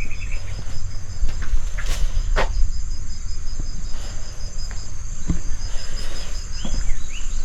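Insects trilling steadily in a high, pulsing note over a constant low rumble, with a few sharp clicks.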